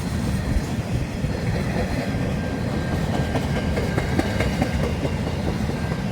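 Long intermodal freight train's wagons rolling past: a steady low rumble of steel wheels on the rails with scattered faint clicks. A faint, thin, steady high squeal joins about two and a half seconds in.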